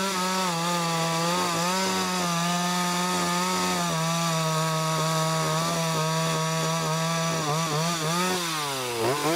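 1959 Stihl Contra two-stroke chainsaw running at full throttle while cutting the felling notch into a pine trunk, its pitch steady with small dips as it loads in the wood. Near the end the engine speed falls away.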